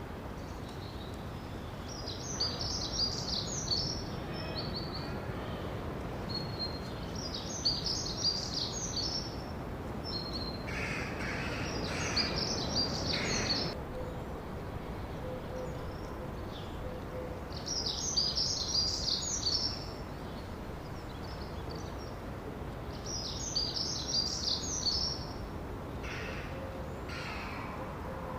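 A songbird singing short, high, rapid phrases about every five seconds over steady background noise, with a lower, harsher bird call twice.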